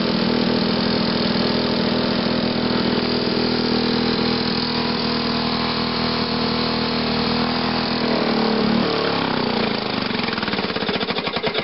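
Lawnboy 7260G two-stroke mower engine running steadily just after a cold start. About eight seconds in, its pitch falls as the engine slows down.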